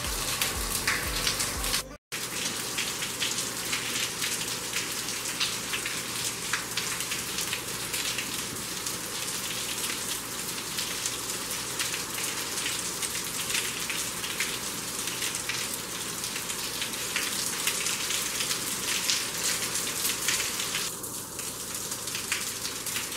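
Steady rain falling, an even hiss of many separate drop hits, with a brief break about two seconds in.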